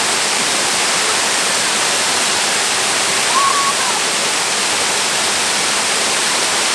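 Waterfall rushing, a loud, steady wash of falling water. A brief faint voice-like call rises over it about halfway through.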